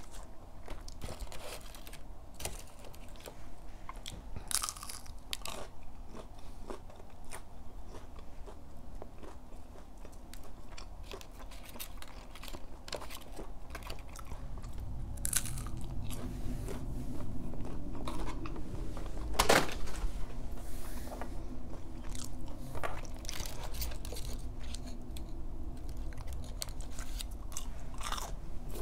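Close-up eating of McDonald's chicken nuggets: biting into the crisp breading and chewing, with scattered short crunches, the loudest about two-thirds of the way in.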